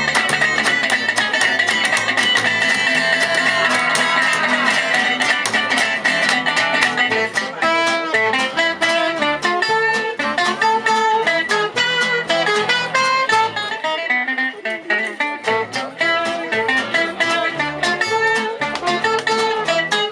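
Jazz manouche band playing live: guitars strumming a steady beat under a bass line and a melody that opens on a long held, wavering high note, then runs into a quicker line of short notes.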